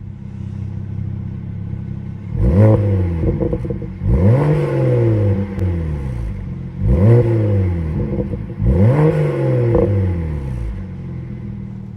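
BMW N54 twin-turbo 3.0-litre inline-six, breathing through an Injen cold air intake, idling and then revved four times, each rev climbing quickly and falling back to idle.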